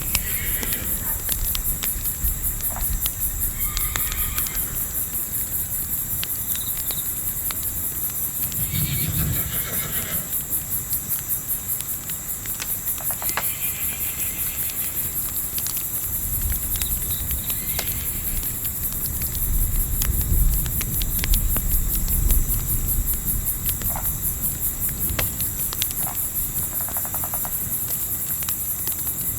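Continuous high cricket chirping under sparse crackles of a campfire, with a few short, distant animal or bird calls and a low wind rumble that swells twice.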